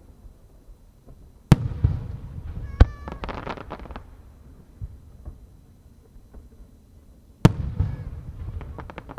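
Aerial firework shells bursting: a sharp bang about a second and a half in and another near the end, each followed by a couple of seconds of crackling.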